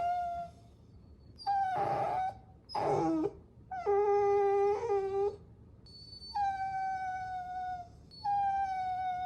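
Puppies whining: a run of about five high-pitched whines, each half a second to a second and a half long with short pauses between, several sliding slightly down in pitch as they end.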